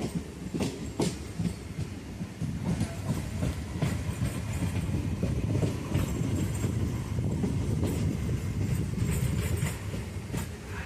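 Passenger train running along the line, with a steady low rumble and irregular clacks of the wheels over the rail joints.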